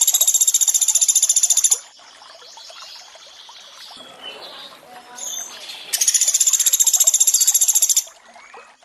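Pelatuk beras bird giving its rapid, high-pitched trill ('tembakan'), two bursts of about two seconds each, one at the start and one beginning about six seconds in. Running water splashes softly in the gap between them.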